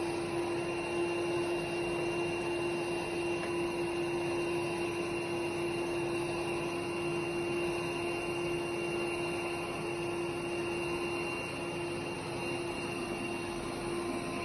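Robot vacuum's suction fan running steadily: an even motor whine over a rushing airflow hiss.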